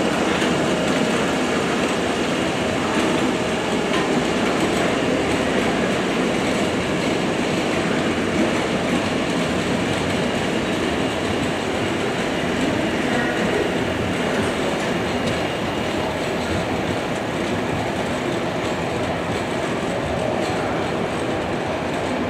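A London Underground battery-locomotive-hauled engineering train of open wagons rolling slowly past. Its steel wheels make a steady rumble on the rails that eases slightly toward the end.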